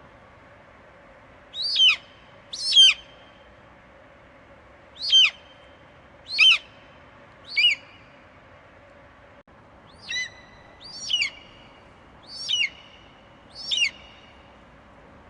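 Eagle giving a series of short, high screeching calls, each falling sharply in pitch: nine in all, a group of five and then, after a short pause, a group of four, over a steady low hiss.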